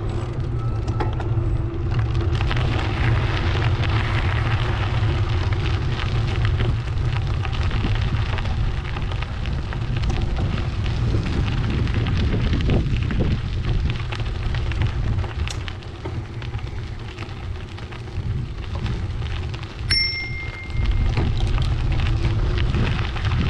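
Wind buffeting the microphone of a camera on a moving bicycle, a heavy steady rumble with rough noise from the ride over it. About twenty seconds in, a short clear high tone sounds for about a second.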